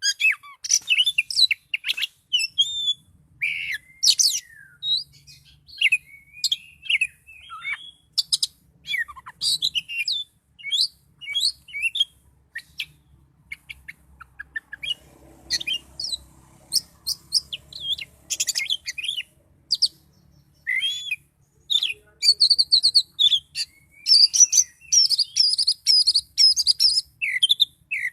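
Oriental magpie-robin singing a fast, varied song of sharp chirps, slurred whistles and rising and falling notes in quick bursts, with a longer buzzy run of notes near the end. This is the excited, full-volume song that keepers call 'gacor'.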